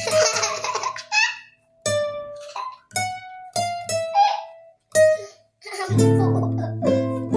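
Acoustic guitar playing a slow melody of single plucked notes with short pauses between phrases, then strummed chords from about six seconds in.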